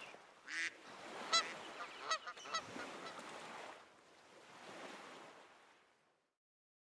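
Faint lakeside ambience: waterfowl honk a few times over a soft, even wash of water. All of it fades out shortly before the end.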